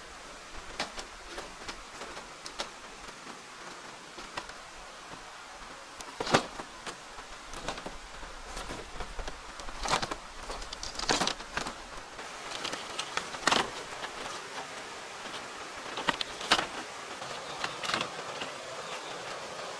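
Irregular sharp knocks and clicks, a few loud ones among many fainter taps, over a steady background hiss.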